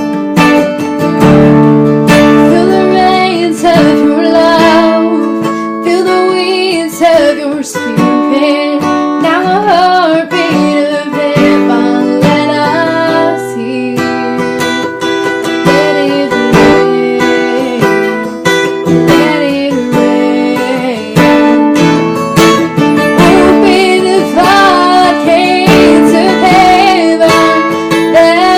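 Acoustic guitar strummed and picked in chords, with a voice singing a melody over it.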